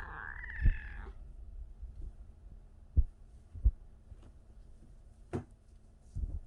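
Young kitten mewing, a thin wavering call that stops about a second in. It is followed by a few dull low thumps and one sharp click.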